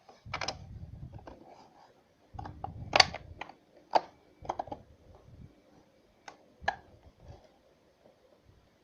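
Tools and wood being handled on a workbench: a scatter of sharp knocks and clicks with dull low thuds under some of them, the loudest knock about three seconds in.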